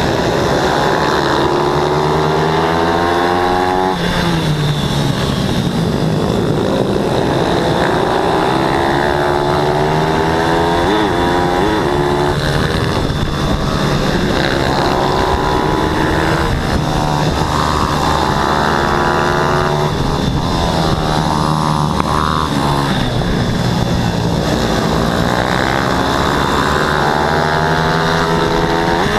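Pit bike racing engines (14 hp class) revving hard. The pitch rises again and again, then drops sharply as the bikes shift or roll off the throttle, and at times more than one engine is heard at once.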